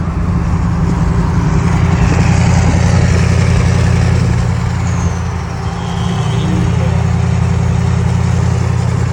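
Ford 6.7 Power Stroke V8 turbodiesel with its DPF deleted, exhaust through an open straight pipe, running with a loud, steady low drone. The loudness eases off briefly a little past five seconds, then climbs back up.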